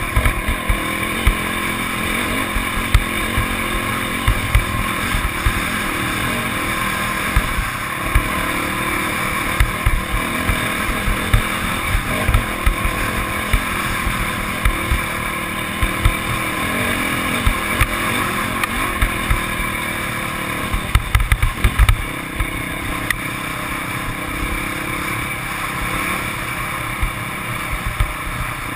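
Motocross motorcycle engines running and revving, with frequent short low thumps.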